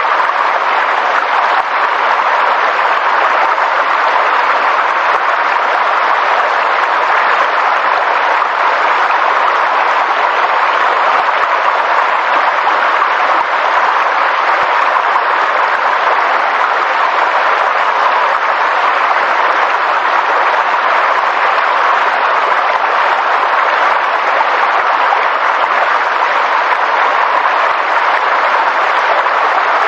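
Steady, even rushing noise of a nature sound recording, unchanging throughout.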